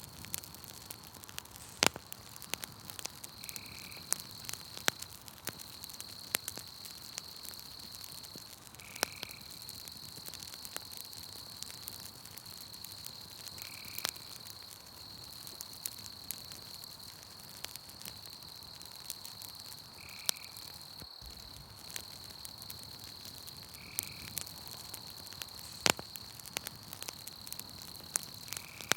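Wood campfire crackling with scattered sharp pops, a few much louder than the rest, over a steady high-pitched insect trill. A short animal call repeats every four to six seconds.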